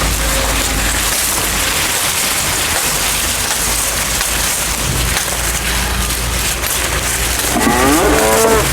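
A steady hiss runs throughout, and near the end a cow begins a long, rising moo.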